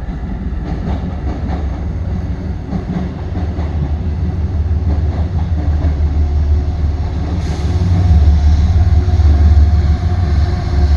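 Passenger train rolling through the station with a steady low rumble, getting louder about seven seconds in.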